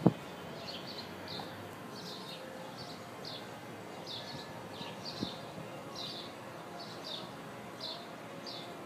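A bird chirping over and over, short high chirps about twice a second, over a low steady outdoor background. A single sharp tap sounds at the very start.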